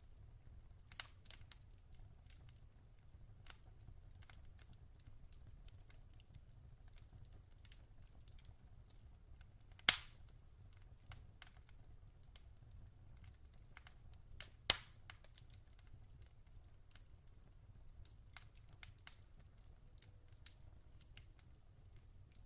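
Log fire crackling softly, with scattered small pops and two loud sharp snaps, one about ten seconds in and one near fifteen seconds.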